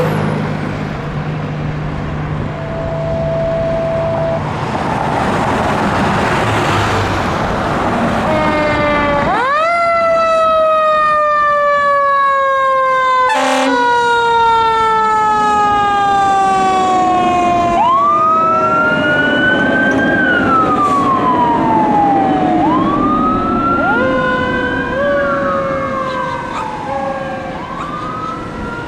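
Fire apparatus siren. For the first nine seconds there is only truck engine and traffic noise. Then a mechanical siren spins up sharply and winds slowly down in pitch. In the second half an electronic siren wails up and down over it.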